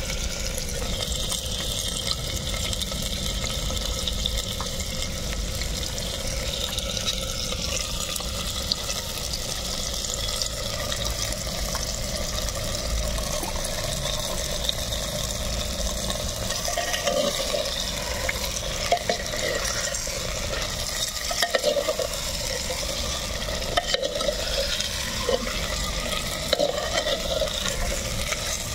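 Chicken pieces frying and sizzling in hot oil in a clay pot, stirred with a ladle. The ladle scrapes and knocks against the pot, the knocks coming more often in the second half.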